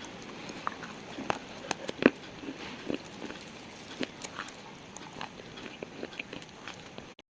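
Pieces of slate being crushed, giving scattered sharp cracks and crumbling crunches over a faint gritty hiss. The sound cuts out abruptly near the end.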